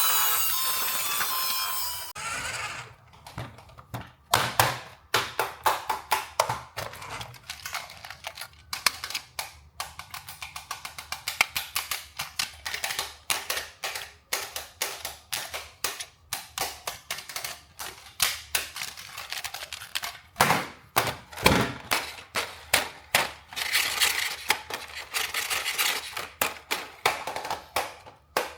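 A small electric toy motor whirs for about two seconds and cuts off abruptly. Then comes a long run of quick, irregular clicks and taps of hard plastic toy parts being handled.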